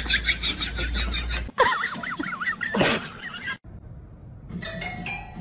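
Rapid high squeaky chirps and warbling calls over a low hum, cut off abruptly twice. About four and a half seconds in, a cat presses the keys of a toy piano, sounding a few plinking notes that ring on.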